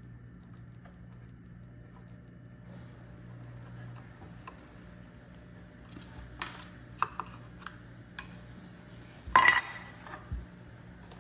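Small metal clicks and clinks of a hex key and screws as the printer's shipping-bracket screws are worked loose, with a louder short metallic clatter near the end, over a faint steady low hum.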